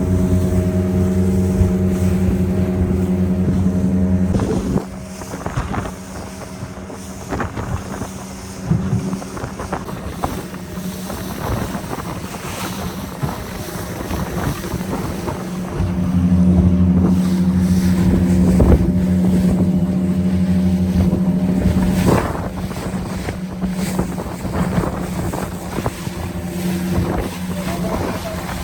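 A boat's 25-horsepower outboard motor running steadily under way, its hum louder at the start, dropping off after about four and a half seconds and rising again about halfway through. Wind buffets the microphone, and the hull knocks and water splashes now and then.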